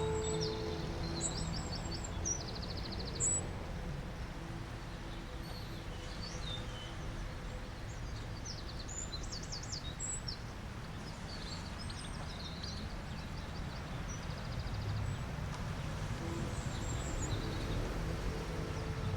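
Small birds chirping and trilling over a steady low background hiss of outdoor ambience. A soft, held music drone fades out early on and comes back faintly near the end.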